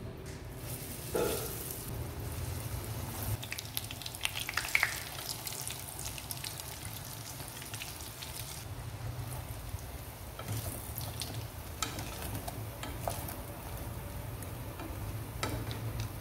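Breaded potato, eggplant and zucchini patties sizzling as they shallow-fry in oil in a nonstick pan. The sizzle starts as the first patty goes in, about half a second in. Light clicks and taps of a fork against the pan come through it as the patties are turned.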